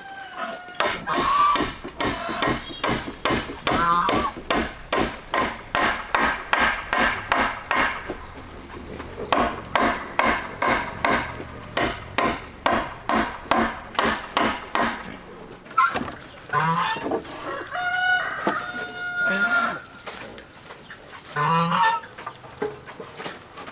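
Steady hammering on wood, about three blows a second, stopping about fifteen seconds in, with chickens calling and clucking through it and a few longer calls near the end.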